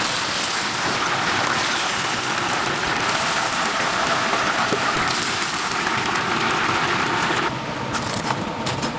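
Chicken deep-frying in hot oil, a steady sizzling hiss; about seven and a half seconds in it drops in level to a quieter sizzle with scattered crackles.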